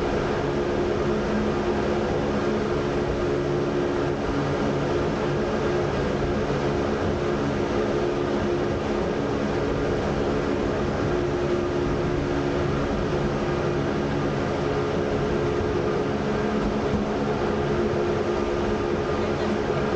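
Jungfrau cogwheel (rack) railway train running at a steady speed: an even mechanical hum with a couple of steady tones over a constant rumble.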